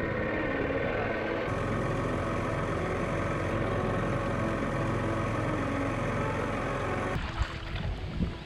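Dinghy outboard motor running steadily under way, cutting off suddenly about seven seconds in.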